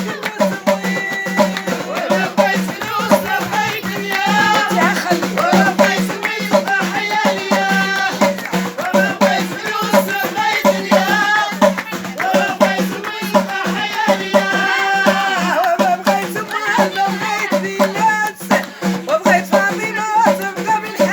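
Music: a voice singing a melody over fast, dense shaken-rattle percussion and a steady low drone.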